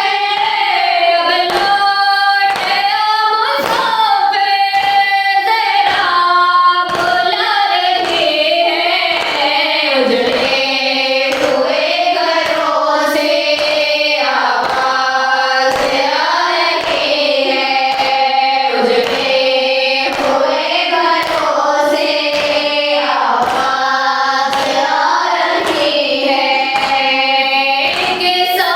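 Noha recitation: voices singing a mournful lament over steady, regular beats of matam, hands striking chests in time.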